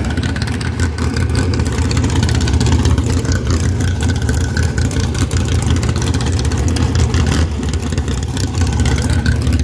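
Drag-race engine idling loudly and steadily, a deep low rumble with no revving.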